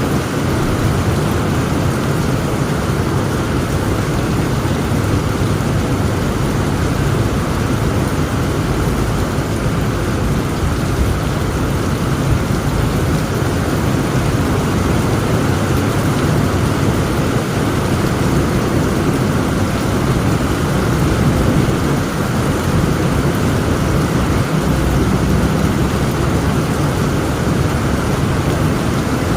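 Heavy rain falling steadily, with a low, continuous rumble of thunder underneath.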